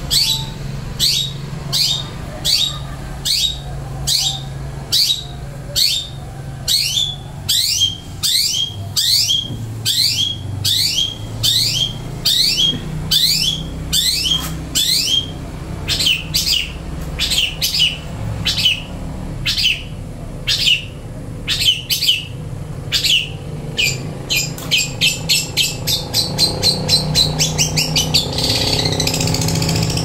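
Caged songbird calling over and over: sharp whistled notes that each sweep down in pitch, about two a second, quickening into a fast run of notes near the end.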